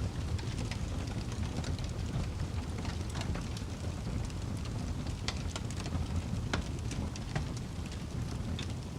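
Campfire burning with a steady low rumble and frequent sharp crackles and pops from the wood, scattered irregularly throughout.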